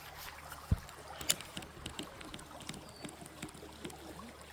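Creek water running, with scattered small clicks and knocks; a dull thump under a second in and a sharper click just after a second.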